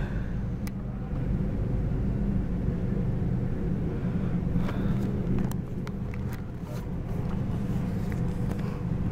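Norfolk Southern freight train rolling past: a steady low rumble of wheels on rail, with scattered sharp clicks, most of them in the second half.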